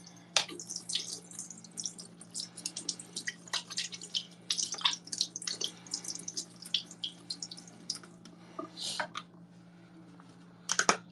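Dishes being washed in a sink: water splashing and dripping with irregular light clatter, a louder burst near the end, over a steady low hum.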